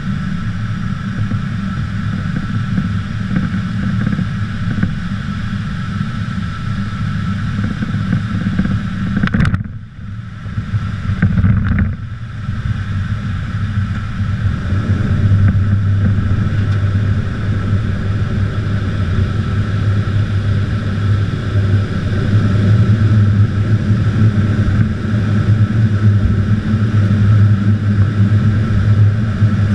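Aircraft engines running with a steady drone and a thin steady whine above it. The sound drops away briefly about ten seconds in, then returns with a louder low hum from about fifteen seconds in.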